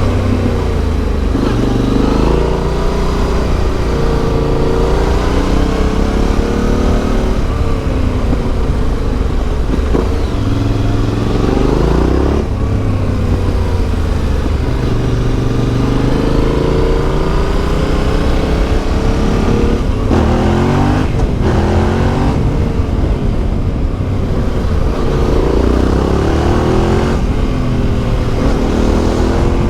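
Yamaha Ténéré 700's CP2 parallel-twin engine through an Akrapovic exhaust, riding under load. Its revs repeatedly climb and fall back as the throttle is opened and rolled off, with a couple of brief drops about two-thirds of the way through.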